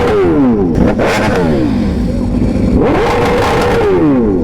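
Sportbike engine revved hard: the pitch climbs, holds high and falls back, once dying away at the start and again as a full rev about three seconds in.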